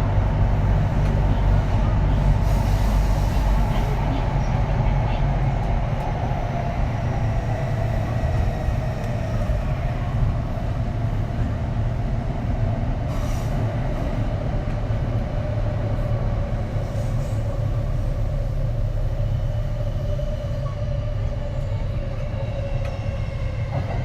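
Kintetsu 3220-series electric train running, heard from inside the car: a low rumble from the wheels and track with the whine of its Hitachi IGBT inverter and traction motors. The whine slowly falls in pitch as the level eases down, and near the end a set of higher inverter tones comes in.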